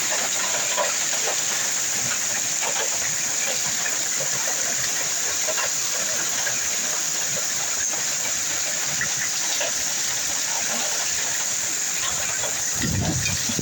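Heavy rain from a storm pouring down steadily, with many scattered drops pattering on surfaces.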